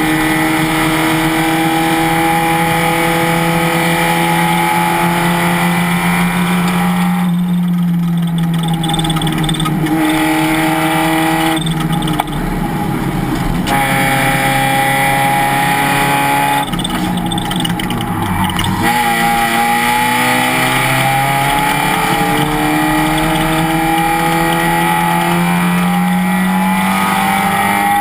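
Race car engine at racing revs: its note holds, drops back sharply three times with brief lifts off the throttle about 7, 12 and 17 seconds in, then climbs steadily through the last third as the car accelerates.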